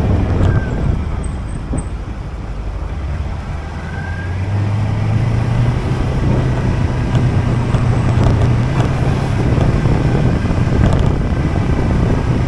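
Motorcycle engine running under way with road and wind noise; the engine note rises about four seconds in and then holds steady.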